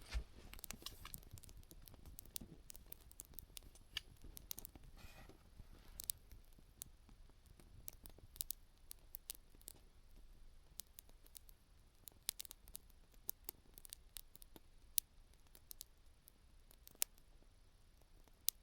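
Small campfire of kindling and split wood crackling: a quiet, irregular run of sharp pops and clicks as the wood burns.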